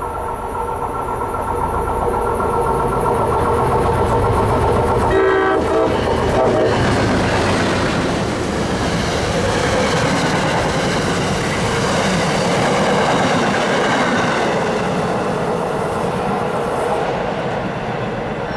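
A passenger train passing close by, its rumble and wheel clatter on the rails swelling, holding loud for about ten seconds, then fading. A brief horn blast sounds about five seconds in.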